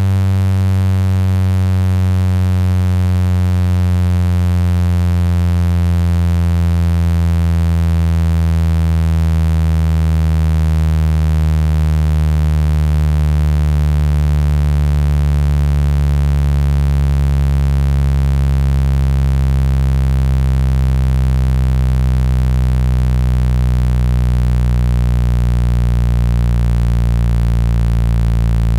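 Electronic speaker-cleaning tone: a loud, steady low buzzing tone, with a stack of overtones that slowly slide downward in pitch. It is meant to vibrate trapped water and dust out of a phone speaker.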